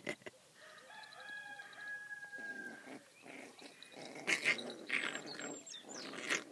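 Young puppies, about five weeks old, growling in short bursts as they squabble, getting louder in the second half.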